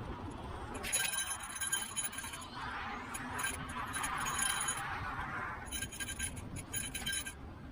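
Metallic clinking and rattling in dense, irregular bursts with a ringing edge, starting about a second in and stopping shortly before the end.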